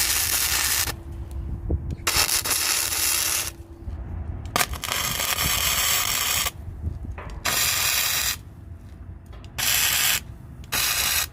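Six harsh scraping strokes, each half a second to two seconds long with short gaps between, and a faint steady hum in the gaps.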